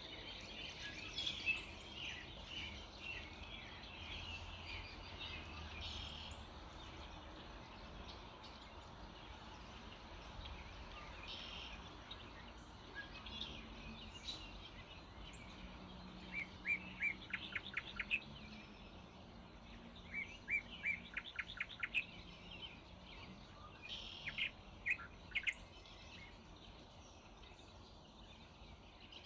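Early morning birdsong from several birds: a dense chatter of chirps in the opening seconds, then two rapid trills of repeated notes in the middle and a few scattered calls near the end, over a faint steady background hiss.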